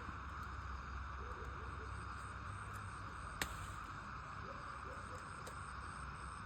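Faint steady hiss with a low hum underneath, broken by one sharp click about halfway through.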